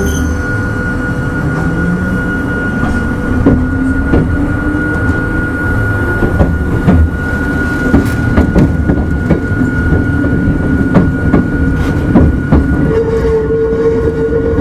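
Hakone Tozan Railway Moha 1 electric car, converted to Cardan drive, running on the line, heard from inside the car. There is a steady low rumble and motor whine, and the whine rises a little in the first few seconds. Scattered sharp clacks come from the wheels over rail joints, and a steady mid-pitched tone sets in near the end.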